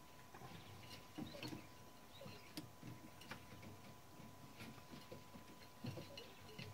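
Faint, irregular light clicks and taps of small typewriter parts, keytops and their metal rings, being handled, with a few sharper clicks and a faint steady high hum underneath.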